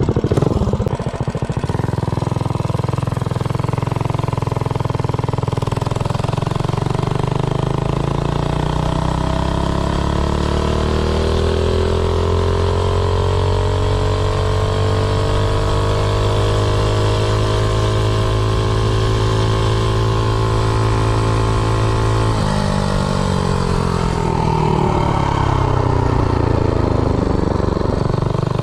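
Minibike's modified Predator 212 single-cylinder engine with a header pipe, run at full throttle on a top speed run. Its pitch climbs for about twelve seconds and then holds high near top speed. About 22 seconds in the throttle is cut and the pitch drops away as the bike slows.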